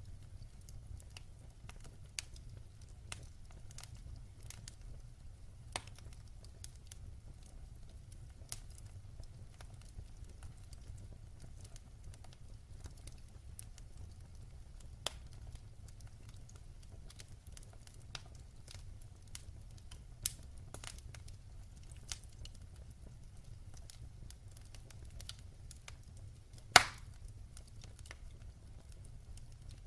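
Wood fire burning in a fireplace: scattered sharp crackles and pops over a steady low rumble, with one loud pop near the end.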